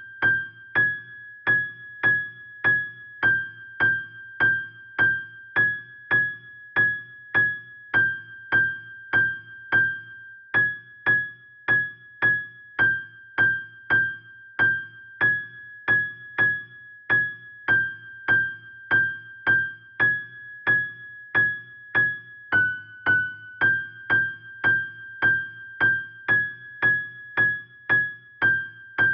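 A single high keyboard-like note near G6 is struck about twice a second, each stroke fading quickly, and its pitch shifts slightly every few strokes. A steady low hum runs underneath.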